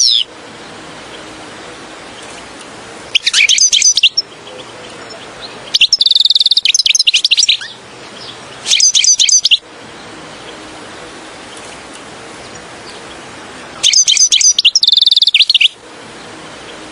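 European goldfinch singing: four short phrases of fast, high twittering chirps and trills, separated by pauses, over a steady hiss.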